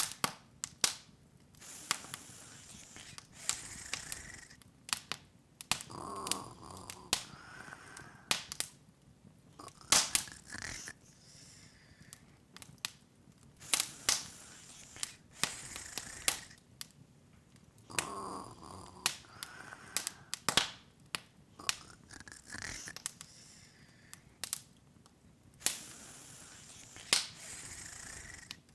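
Open wood fire crackling: irregular sharp pops and snaps over a soft steady hiss, with a few louder pops scattered through.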